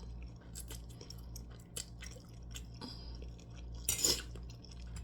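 A person chewing and eating food, with small wet mouth clicks and a brief hiss about four seconds in, over a steady low hum.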